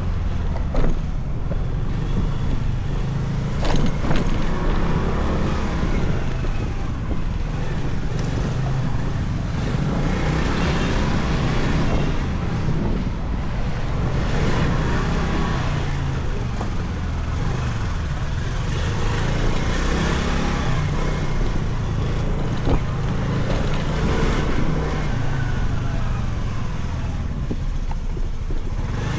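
Motorcycle riding through city streets: its engine running with the pitch rising and falling as it speeds up and slows, over a steady low rumble of wind and road noise, with traffic around it.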